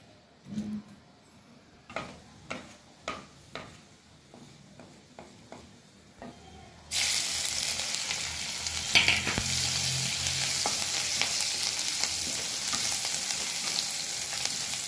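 Cumin seeds in hot mustard oil in a steel wok, with a few sharp clicks and taps. About seven seconds in, a loud, steady sizzle starts suddenly as chopped green chillies, ginger and raw turmeric hit the oil, and a wooden spatula stirs them.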